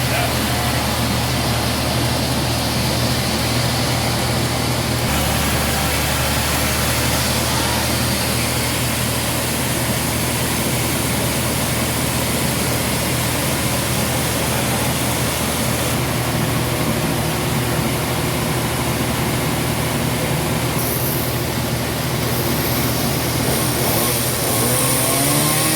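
Heavy engine running steadily with a constant low hum and a broad hiss. Its pitch rises briefly near the end.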